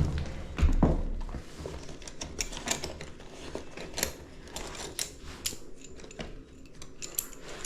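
Irregular light metallic clicks, clinks and taps of tools and furnace parts being handled, with a low thump near the start.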